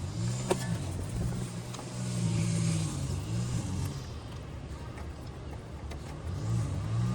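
A vehicle engine running with a low, wavering rumble, with a few sharp clicks, about half a second in and again near two seconds, of the kind hand tools make.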